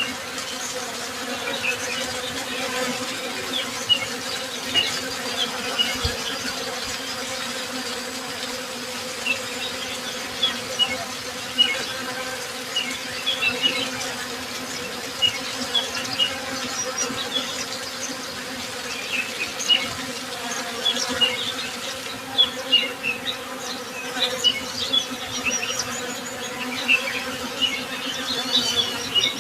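Honey bees buzzing in a steady, even drone, with many short, high bird chirps scattered over it.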